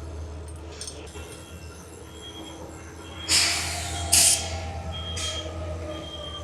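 Commuter train standing at the platform with a steady low hum, releasing loud hisses of air about three and four seconds in and a shorter one near five seconds, while a short high beep repeats about once a second.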